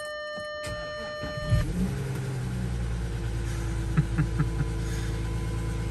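Audi TDI diesel engine cold-started at about freezing after glow-plug preheat: a brief crank about a second and a half in, it catches at once and settles into a steady idle, an effortless start. A steady electronic tone sounds until the engine cranks.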